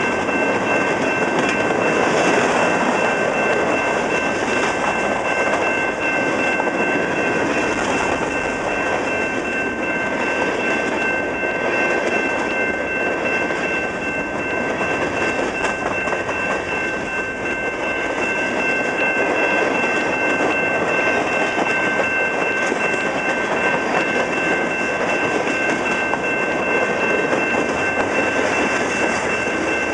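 Canadian Pacific freight train cars rolling past close by: the steady noise of steel wheels on rail as coil cars, covered hoppers and a centerbeam flatcar go by. A steady high whine runs through it.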